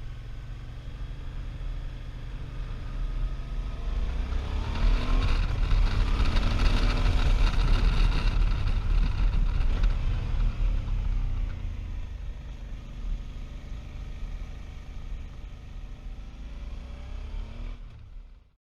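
Motorcycle engine running over a low rumble and rushing wind while riding. Its pitch rises and falls as the revs change, louder through the middle, then it eases off and cuts off abruptly near the end.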